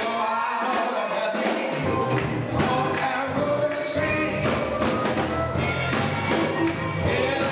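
Gospel choir singing with band accompaniment and a shaken tambourine. The low bass drops out for the first two seconds, then comes back in.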